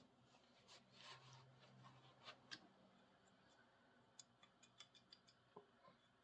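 Near silence, with a few faint clicks and rubs from a large, rusty adjustable wrench being handled and wiped with a rag. A faint low hum sits under the first couple of seconds.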